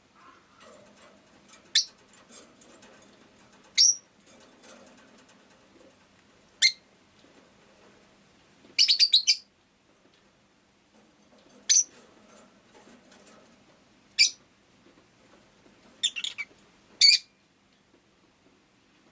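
Rosy-faced lovebird giving short, sharp, high chirps every two to three seconds, with a quick run of several calls about halfway through. A faint low background noise sits under the calls.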